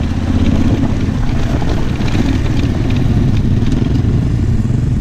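Yamaha Ténéré 700's parallel-twin engine idling steadily while the bike stands waiting at a rally stage start.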